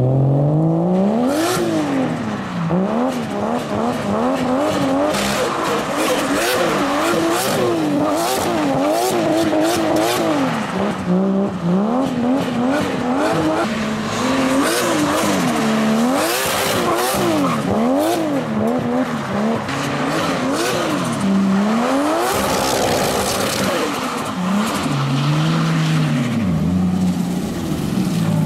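Toyota Chaser drift car's engine revving hard while drifting, pitch rising and falling over and over as the throttle is worked, with tyre squeal mixed in.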